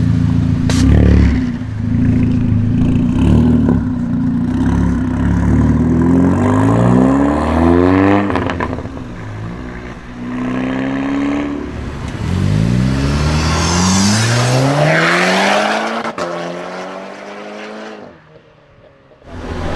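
Volkswagen Golf engine accelerating hard through the gears: the engine note climbs, drops back at each upshift and climbs again. It then fades away as the car drives off.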